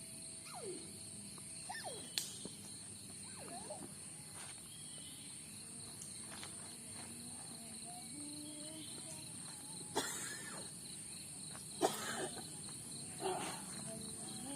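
Steady high-pitched trilling of night insects such as crickets, with a few sharp knocks about ten and twelve seconds in and faint voices in the background.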